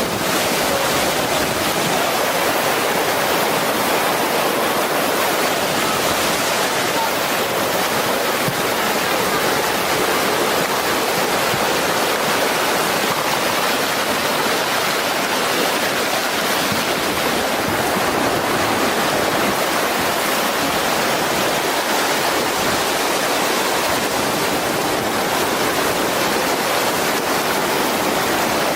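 Muddy floodwater from a rain-triggered mudflow rushing steadily.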